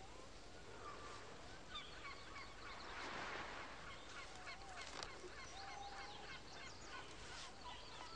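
Faint bird calls: many short chirps and honk-like calls, with a few longer calls mixed in.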